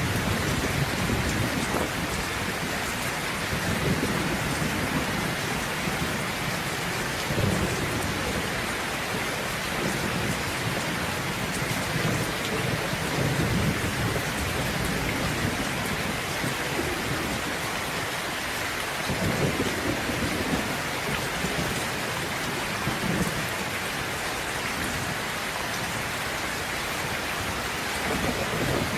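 Steady rain with low thunder rumbling several times, each roll swelling and fading over a few seconds.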